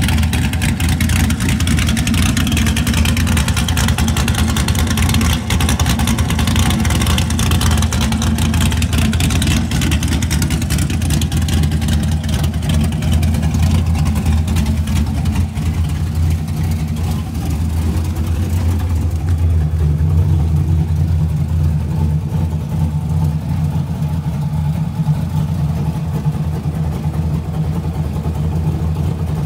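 C5 Corvette's V8, fitted with a BTR Stage 3 camshaft, long-tube headers and a fully straight-piped, catless exhaust, idling steadily with a loud, lumpy chop from the big cam. The sound turns duller about two-thirds of the way in.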